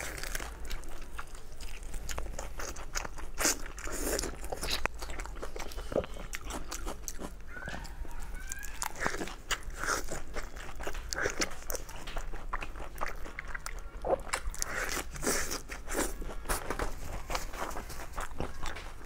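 Close-up biting and chewing of a lettuce wrap of lamb: crisp lettuce leaves crunching with many irregular crackles, mixed with wet mouth sounds.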